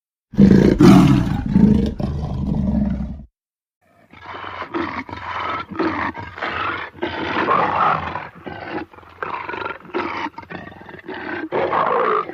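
A big cat roaring: one deep roar of about three seconds, then after a short pause a long run of short, rough calls broken up by many brief gaps.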